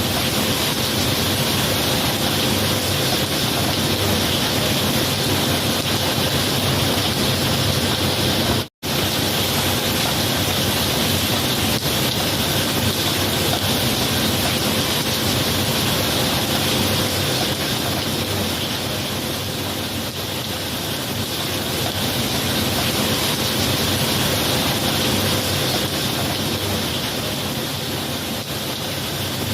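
Steady heavy rain, a dense even hiss with no distinct thunderclaps. It cuts out to silence for a split second nearly nine seconds in, then resumes unchanged.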